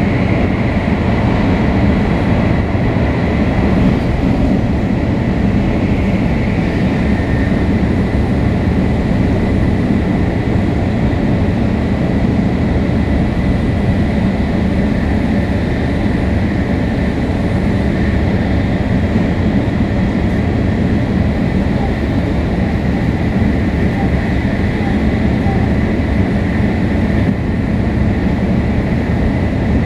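500 series Shinkansen with Toshiba GTO-VVVF traction equipment running at speed. It gives a steady, loud rumble of wheels on rail, with a thin, steady high whine over it.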